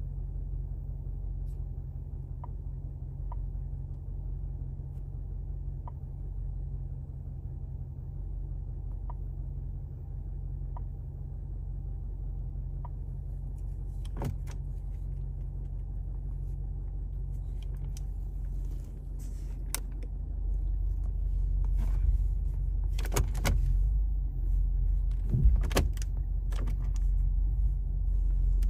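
BMW M850i's 4.4 L twin-turbo V8 idling, heard as a steady low rumble from inside the cabin, growing a little louder in the second half. Scattered clicks and knocks come in from about halfway, two of them sharper near the end.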